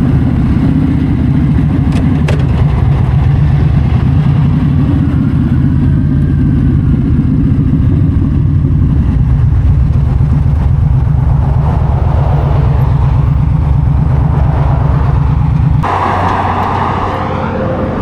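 Yamaha V-Star 1300 V-twin engine running steadily at highway cruise, with wind noise. Near the end the engine note drops off suddenly and a different, noisier wind and road sound takes over.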